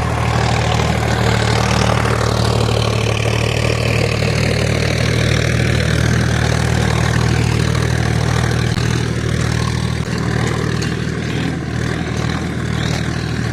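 Small engine of a miniature DIY tractor running steadily at a constant speed, a low even drone with a rough hiss above it.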